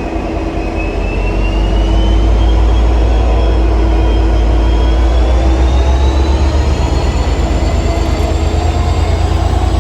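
Diesel train running close by with a heavy low rumble that builds over the first couple of seconds. Several whines rise steadily in pitch as it accelerates.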